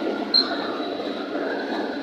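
Container freight train rolling past with a steady rumble, and one brief, sharp, high-pitched squeak about a third of a second in.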